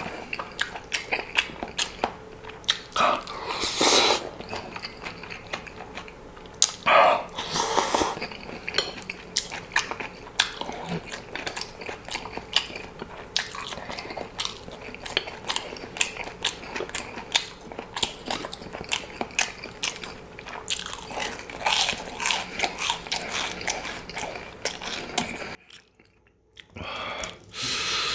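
Close-miked eating: steady wet chewing and biting with many sharp mouth clicks and occasional louder crunchy bites. The sound drops out briefly near the end.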